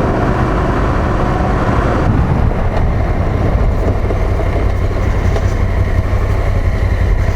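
Big single-cylinder-class adventure motorcycle engine running under way on a dirt road, a steady low rumble with road and wind noise over it; the tone shifts a little in the first two seconds, then holds steady.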